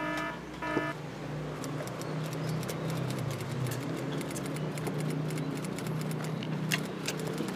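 A man humming a closed-mouth "mmm" while chewing a mouthful of rice, the hum wavering in pitch, with many fine wet chewing clicks close to the microphone. A repeated beeping tone sounds twice in the first second, and there are a couple of sharp clicks near the end.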